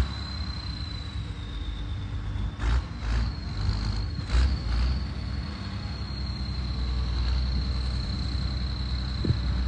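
Deutz air-cooled diesel tractor engine running steadily, with a high, steady whine over the low rumble and a few brief louder bursts in the first half.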